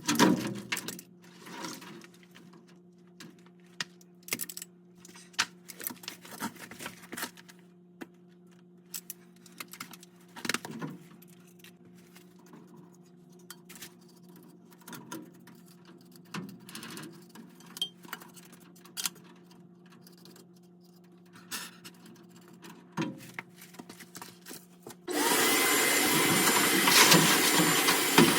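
Scattered clicks and knocks of tools and metal furnace parts being handled, over a faint steady hum. Near the end a loud, steady rushing noise starts suddenly.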